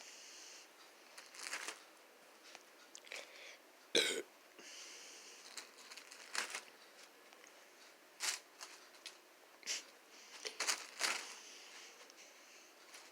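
Scattered light knocks and rustles, with one sharper knock about four seconds in.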